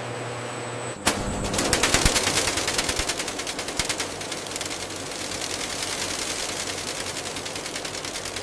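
Factory machinery humming steadily, then from about a second in a loud, dense, rapid rattling clatter, like many small hard pieces rattling through a machine.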